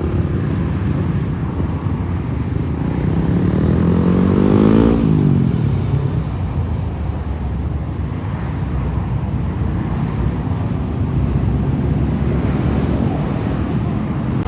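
Highway traffic noise with one motor vehicle passing close about five seconds in: its engine note climbs in pitch and loudness as it approaches, then drops as it goes by. Steady road rumble continues from other traffic.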